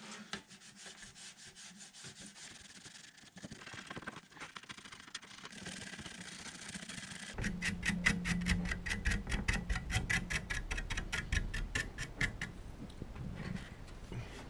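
Electronic no-input feedback from a Digitech RP-1 multi-effects processor: a rapid, evenly pulsing, gritty texture. About seven seconds in it swells louder with a heavy low rumble under the pulses, about six a second, then thins out near the end.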